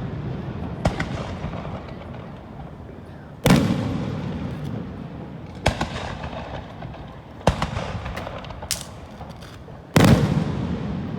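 Aerial fireworks shells bursting: two big booms, one about three and a half seconds in and one near the end, with three sharper bangs between them. Each is followed by a long rolling echo.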